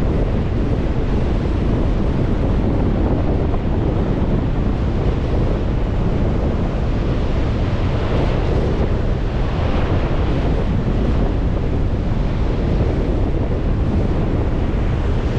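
Strong wind buffeting the microphone with a steady low rumble, over lake waves washing onto the shore, with louder surges of surf about eight and ten seconds in.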